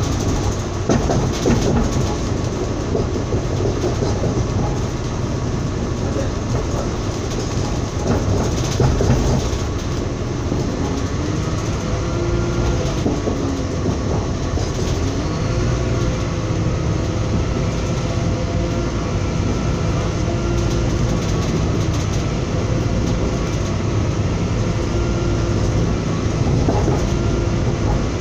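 A train running along the track, heard from inside a carriage: a steady rumble of wheels on rail, briefly louder about a second in and again around eight seconds.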